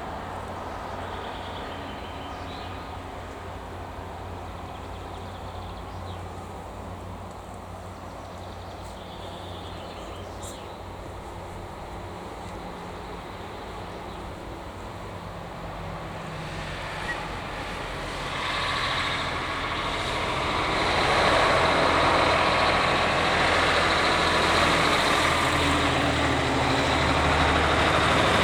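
Vintage Krupp truck engine running. It grows clearly louder about two-thirds of the way in and stays loud.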